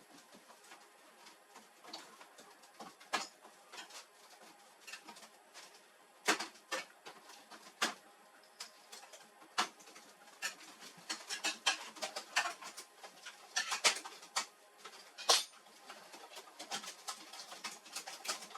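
Irregular small clicks, taps and knocks of hard plastic and metal printer parts being handled during disassembly. They come thicker and louder about two-thirds of the way through, with a few sharper knocks standing out.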